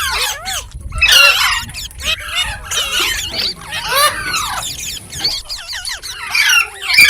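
Indian ringneck parakeet chattering and squawking in rapid calls that swoop up and down in pitch, loudest about a second in and near the end.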